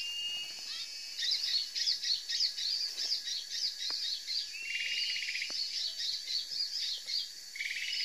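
Several small forest birds chirping and twittering in rapid overlapping high calls, with a short buzzy trill that comes twice, about halfway through and near the end.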